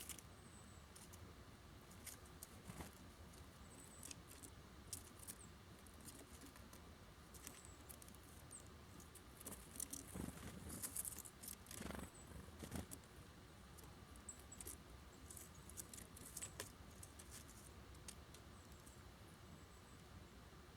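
Faint, scattered clicks and taps of small birds working at a seed feeder, with a busier patch of tapping about halfway through and a few very short, high chirps.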